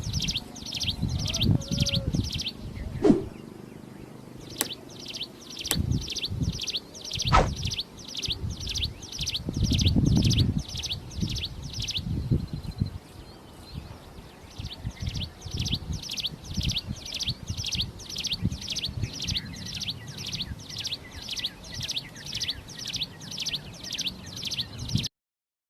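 A prinia singing a long, fast series of identical high, buzzy notes, about three a second, broken by two short pauses. Low rumbles and a few thumps sit underneath.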